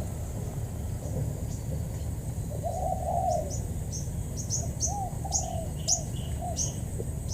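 Spotted doves cooing softly, a longer coo about three seconds in and a few short coo notes later, while a small bird gives a run of short, high, downward chirps.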